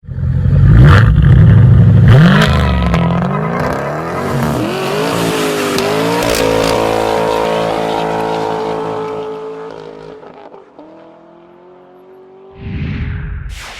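Car engine accelerating hard, its pitch climbing twice as it runs up through the gears, then holding steady and fading away. A short whoosh near the end.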